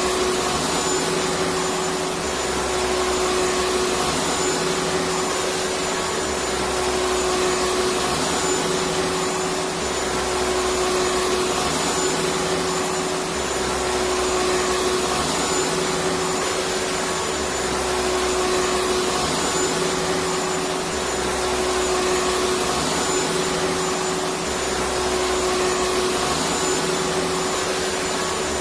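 Electric vacuum cleaner running continuously: a steady airflow rush with a constant motor whine. A low hum underneath comes and goes every couple of seconds.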